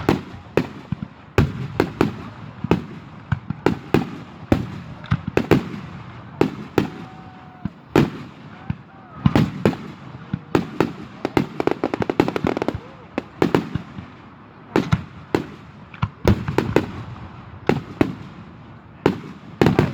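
Aerial fireworks display: a steady run of sharp bangs and crackling shell bursts, several a second, going on without a pause.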